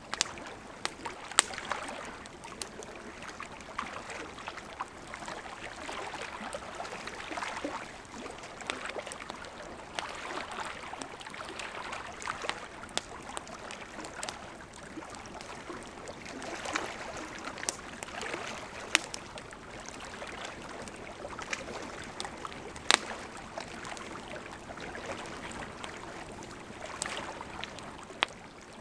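Burning wood campfire: a steady rushing hiss of flames with frequent, irregular sharp crackles and pops.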